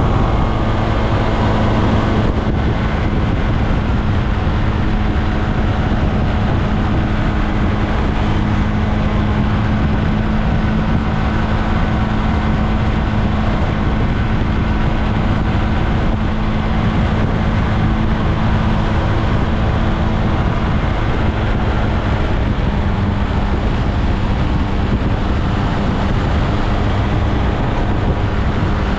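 SYM Maxsym TL 508 scooter's engine running at a steady cruising speed while riding, with wind and road noise.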